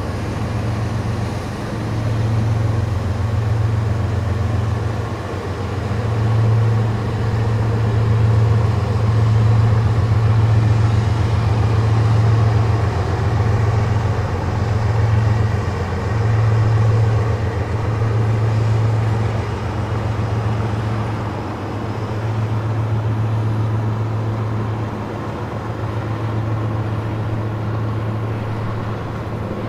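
Freight train's diesel locomotives running with a steady low drone that swells and eases over about half a minute.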